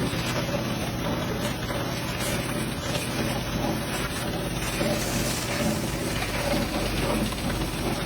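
Pressure washer spraying water onto a dirty mini truck: a steady hiss of spray over the even hum of the washer's motor, the spray a little brighter from about halfway through.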